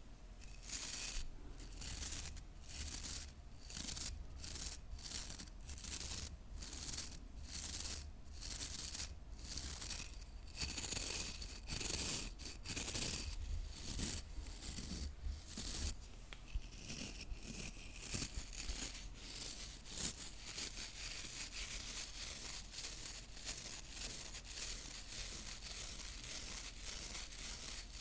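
Hairbrush bristles scratching in repeated strokes, one or two a second at first, then quicker and denser from about halfway through.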